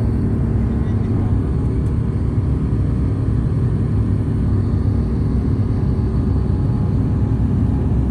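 Aircraft engine drone: a steady low rumble with several humming tones that neither rises nor falls.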